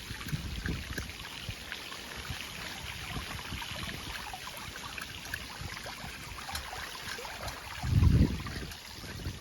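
Floodwater running steadily through a small overflowing gully, with low rumbles of wind buffeting the microphone and one loud low buffet about eight seconds in.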